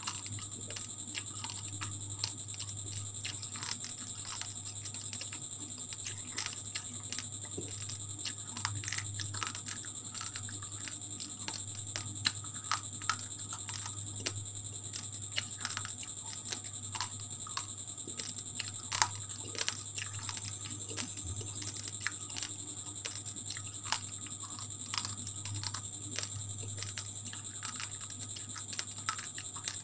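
Raw rice grains crunched between the teeth: an irregular run of small crisp cracks, a few of them louder. Under it runs a steady low hum and a faint high whine.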